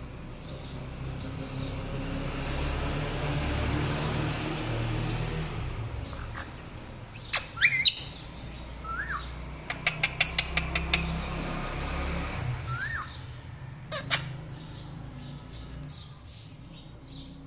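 Pet parrot calling: a few loud sharp shrieks, a quick run of about seven chirps a second, and short rising whistles, over faint twittering and a low steady background rumble.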